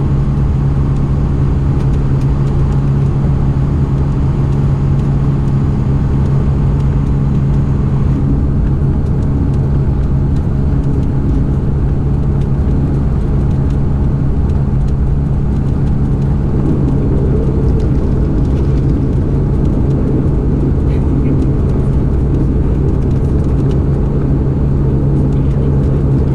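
Cabin drone of a Dash 8-402 (Q400)'s two turboprop engines and six-bladed propellers, heard from inside the passenger cabin: a loud, steady hum with an airy hiss over it. The hiss eases a little about eight seconds in, while the hum holds steady.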